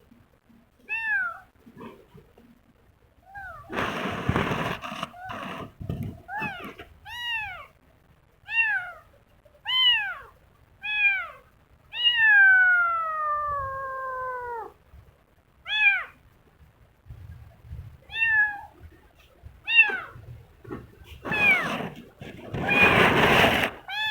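Kitten meowing over and over in short, arched calls, with one long drawn-out meow about halfway through that slides down in pitch. Two short bursts of rustling noise come about four seconds in and again near the end.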